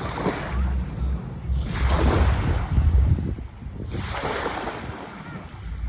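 Waves washing in on a beach, one larger surge of surf about two seconds in and a smaller one about four seconds in, with wind buffeting the microphone in low rumbling thuds.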